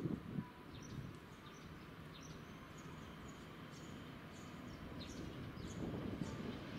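Small birds chirping on and off, with two dull thumps at the very start. An E7 series Shinkansen train draws near at low speed, its low rumble growing louder toward the end.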